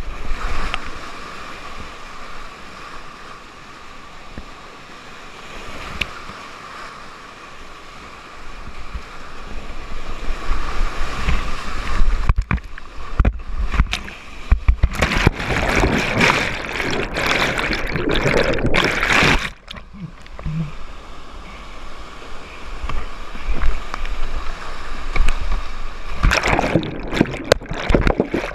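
Whitewater rapids rushing, with loud, choppy bursts of splashing and water striking the microphone through the middle of the stretch and again near the end.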